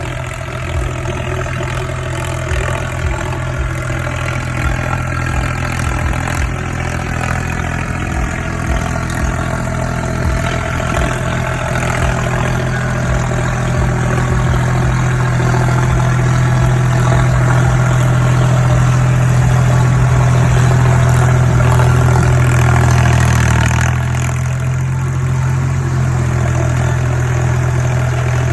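Ford 3600 tractor's three-cylinder diesel engine running steadily. It grows gradually louder until about 23 seconds in, then drops suddenly a little after that.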